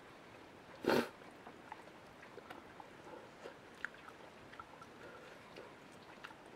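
A person chewing a mouthful of eggplant and green pepper miso stir-fry, with soft, wet clicks scattered throughout. A single short, louder noise comes about a second in.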